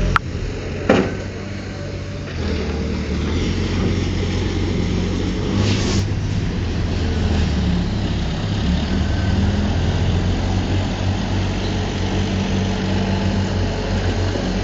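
Diesel engine of heavy earthmoving machinery running steadily, with two sharp knocks in the first second and a brief hiss about six seconds in.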